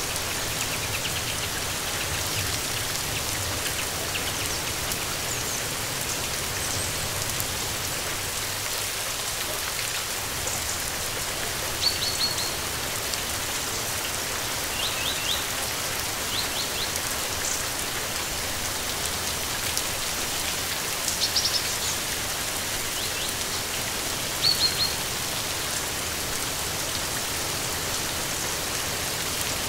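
Steady rain falling, with birds giving short high chirps, often in quick groups of two or three, every few seconds.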